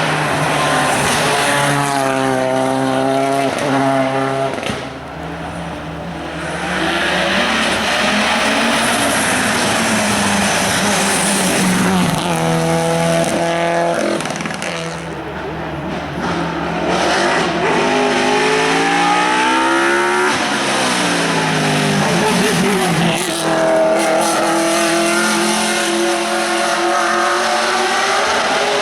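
Hill-climb race car engines revving hard at full throttle. The pitch climbs and drops back again and again as the cars shift up through the gears.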